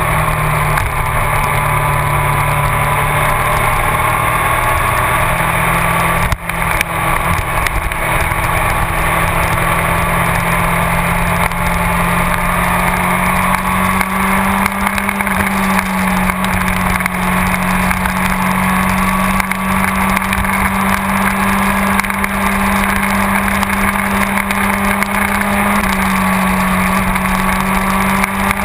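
Yamaha R6 sportbike's inline-four engine running steadily as the bike is ridden uphill, its pitch stepping up a few times, with a brief drop in level about six seconds in.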